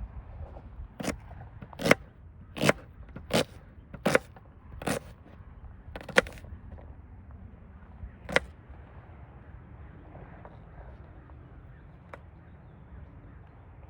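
A series of eight sharp knocks, mostly about one every three-quarters of a second, with a longer gap before the last one about eight seconds in, over a low steady background.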